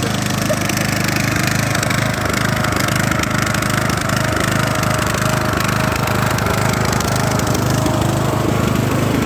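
Briggs & Stratton engine of a Craftsman riding lawn mower running loud and steady as the mower is driven, geared for speed with a small pulley on its transmission.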